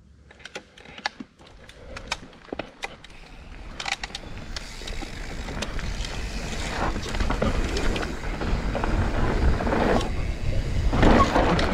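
Mountain bike riding down a dry dirt trail: tyre and wind noise that grows steadily louder as the bike picks up speed, with scattered sharp clicks and rattles in the first few seconds.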